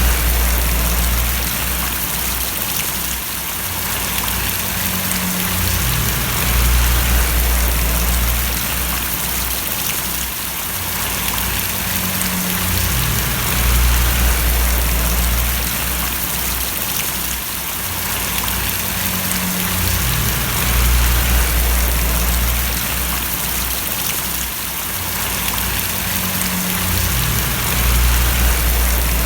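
Steady rain falling and splashing, an even hiss, with a low rumble underneath that swells about every seven seconds.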